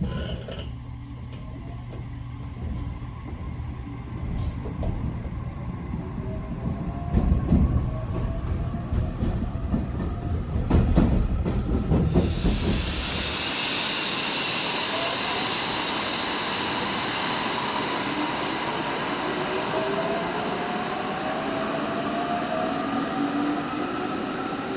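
JR Kyushu 817 series electric train accelerating: the inverter motor drive whines in several tones that rise steadily in pitch over the rumble of the wheels on the rail. About halfway through the sound changes abruptly to a smoother, brighter recording of the same rising inverter whine.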